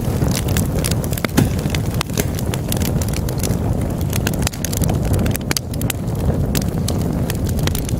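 Wood fire burning in a fireplace: logs crackling with frequent sharp pops and snaps over a steady low rush of flames.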